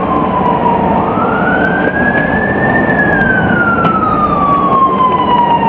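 Scania OmniCity bus running with its drivetrain whine over the engine and road noise. The whine dips, climbs for about two seconds, sinks slowly for about three, and jumps back up right at the end.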